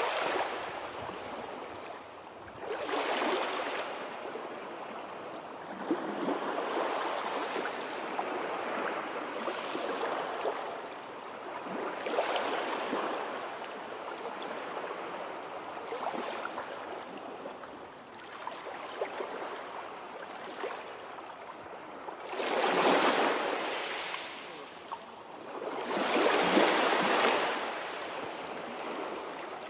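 Sea waves washing in and breaking on the shore, a steady wash that swells louder every few seconds, strongest twice in the second half.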